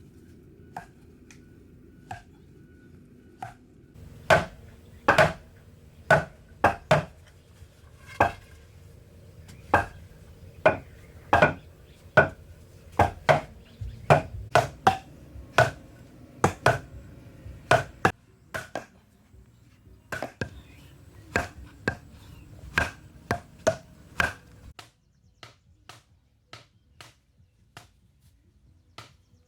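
Repeated sharp chopping strikes at an irregular pace of about one or two a second. A few light knocks come first, the loud strikes begin about four seconds in, and they give way to faint taps near the end.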